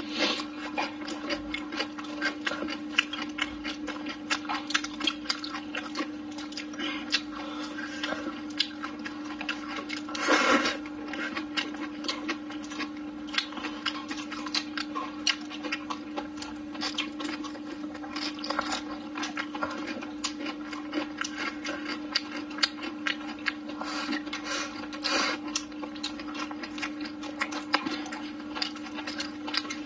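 A person chewing and smacking on braised food, many wet clicks and mouth noises in quick succession, with one louder noisy burst about ten seconds in. A steady hum runs underneath.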